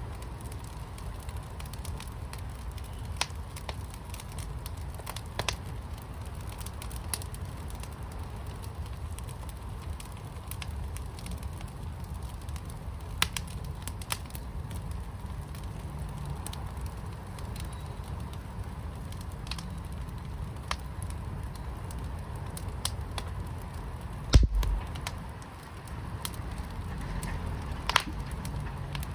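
Wood fire burning in a firepit: a steady low rumble with scattered sharp crackles and pops. About twenty-four seconds in there is one louder thump.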